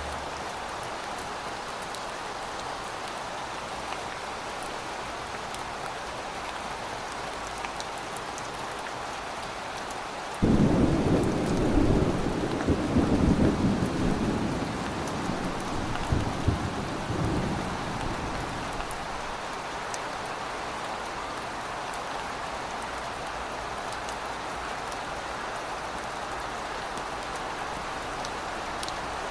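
Steady heavy rain falling, with a sudden peal of thunder about a third of the way in that rumbles loudly for several seconds and dies away.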